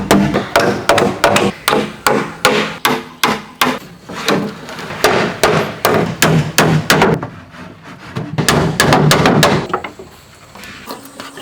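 Hammer striking wood in a steady run of blows, about three a second, with a denser stretch of strikes near the end before they stop.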